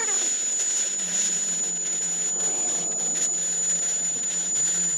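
A steady mechanical rushing noise with a constant high-pitched whine.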